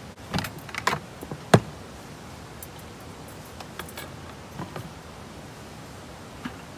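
A quick run of sharp clicks and knocks, the loudest a single knock about a second and a half in, followed by a few faint scattered ticks.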